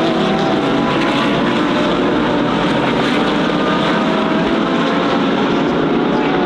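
Several GT3 race car engines running hard at once, a steady dense din with many engine pitches drifting slightly up and down as the field races.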